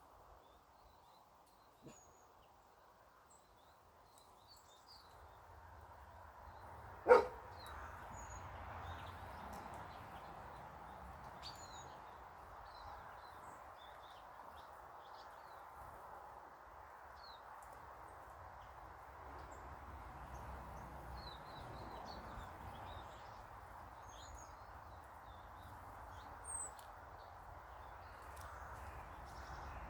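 Small garden birds chirping now and then in short, high calls over a steady background noise, with one loud, sharp sound about seven seconds in.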